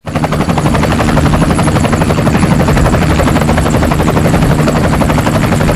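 Helicopter rotor running steadily with a fast, even chopping beat, starting abruptly.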